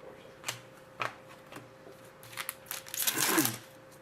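Trading cards being handled and flicked through. There are two light clicks early, then a quick run of card snaps and a louder rustle of about half a second near the end.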